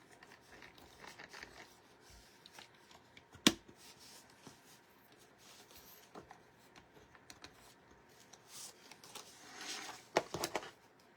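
Quiet handling of paper and card: soft rustling and shuffling, with one sharp click about a third of the way in and a few more clicks near the end.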